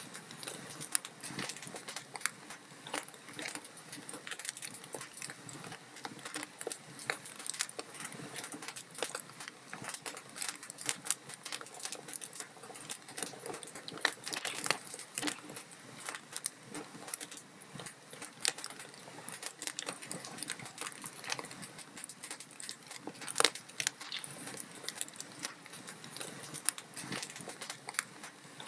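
Log fire burning in a fireplace, crackling with dense, irregular pops and snaps of burning wood, two of them louder about fifteen and twenty-three seconds in.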